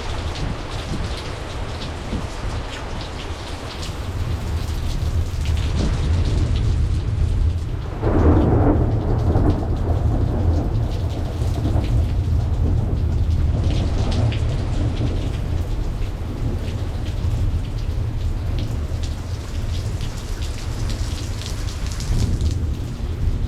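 Steady rain falling in a thunderstorm, with thunder rumbling low underneath. The thunder grows louder a few seconds in, peaks about a third of the way through, then keeps rolling.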